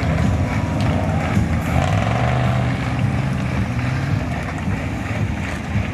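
Monster truck engines running loud and steady as the trucks drive round the arena, a low continuous engine drone.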